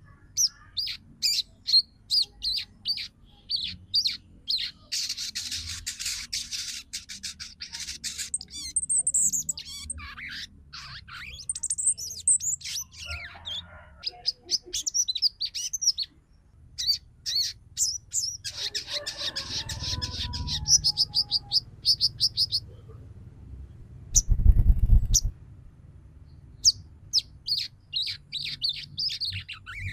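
Female sogon chattering in rapid runs of short, high chirps and trills, with a few sweeping calls in between: a female calling to a male, the kind of call used to stir males to sing and come into breeding condition. A brief low thump about three-quarters of the way through is the loudest sound.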